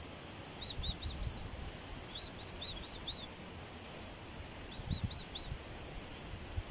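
Birdsong: three short runs of four or five quick, arched chirps, with thinner, higher falling notes in between. A few low, muffled bumps sound on the microphone, the loudest about a second in and again about five seconds in.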